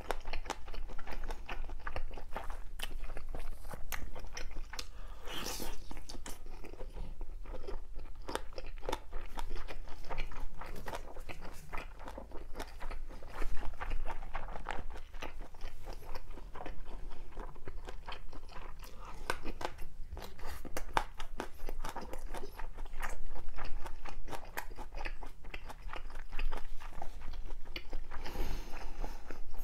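Close-miked chewing of fried fish cake (eomuk), with dense, irregular crunching and wet mouth sounds.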